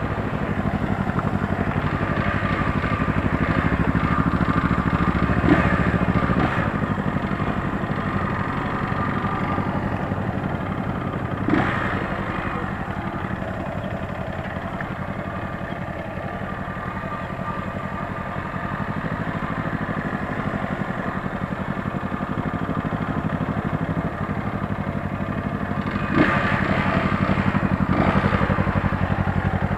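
Motorcycle engine running at a steady, low pace, with a few brief knocks along the way.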